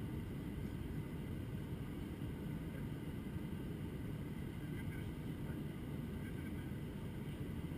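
Steady low rumble of cabin noise inside an Airbus A321-200 airliner: engine and airflow noise heard from a passenger seat, unchanging throughout.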